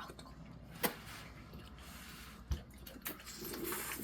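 Quiet mealtime table sounds: two light clicks about a second and a half apart, with soft hiss between.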